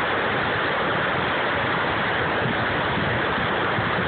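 Mountain river in flood, the Middle Fork of the Popo Agie, rushing and churning in a steady, loud roar of whitewater.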